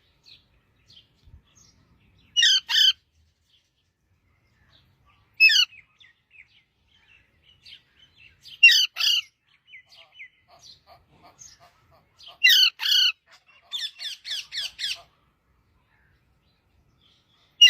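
A parrot calling: loud harsh squawks, mostly in pairs, a few seconds apart, with a quick run of about seven calls near the end and soft chirps in between.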